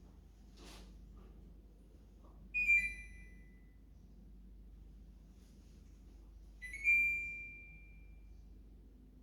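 Two electronic beeps from an air conditioner's indoor unit, about four seconds apart. Each is a bright pitched tone that fades out, and the second rings longer than the first.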